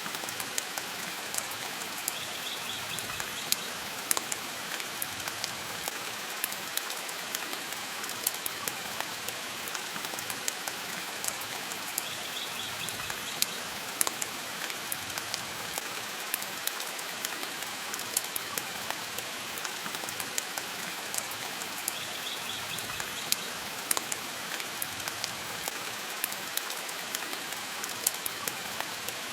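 Steady rain, with many short sharp crackles of a wood fire scattered through it.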